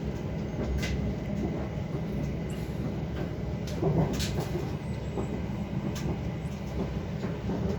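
Moving passenger train heard from inside the carriage: a steady running rumble with a constant hum, and scattered sharp clicks and rattles.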